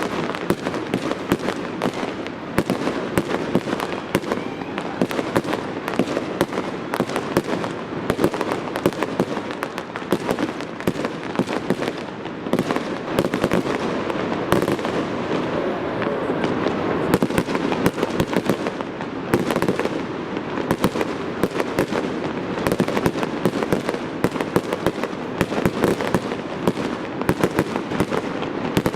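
Fireworks display going off in a continuous barrage: rapid, overlapping bangs and crackles with no break.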